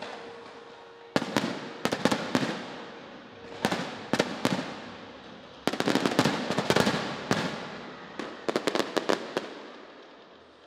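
Aerial fireworks shells bursting in clusters of sharp bangs, each trailing off in an echo. The volley is densest about six seconds in, then thins out and fades away near the end.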